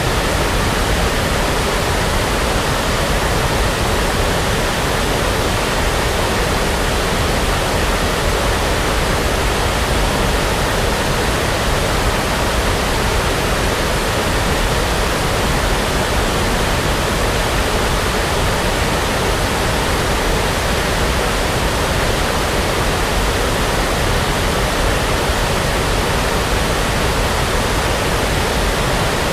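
Steady synthetic brown noise, an even, unchanging rushing hiss like a distant waterfall.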